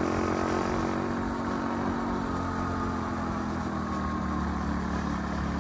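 Dirt bike engine running steadily, its pitch holding nearly constant.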